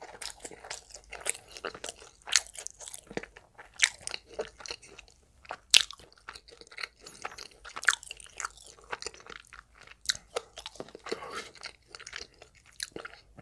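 A person chewing food close to the microphone: irregular crunches and mouth clicks, several a second.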